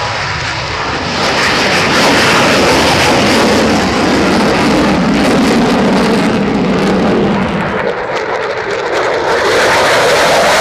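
Jet aircraft flying over: a loud, steady rush of jet engine noise that builds over the first second or two, dips briefly near the end and comes back.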